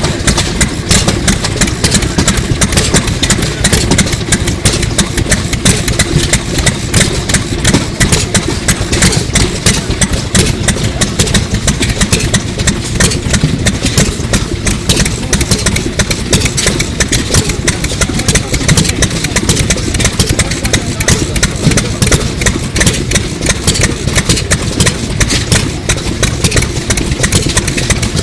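Sato 2 hp hot-bulb semi-diesel engine from about 1933, running steadily with a rapid, even run of knocks.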